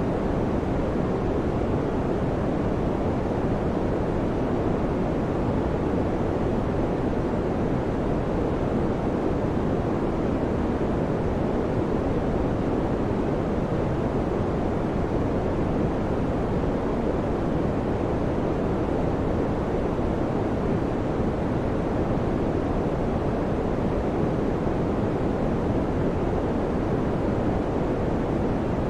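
Electric fan running steadily: an even, dull rush of air with no hum, no rhythm and no change in level.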